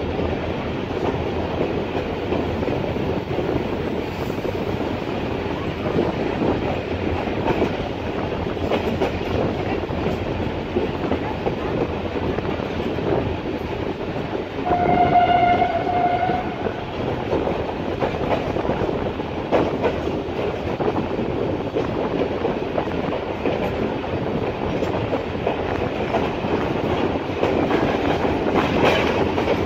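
Passenger train running at speed, heard from the side of a carriage: a steady rumble of wheels on rails with a clickety-clack beat. About halfway through a train horn sounds once, a single held blast of about two seconds.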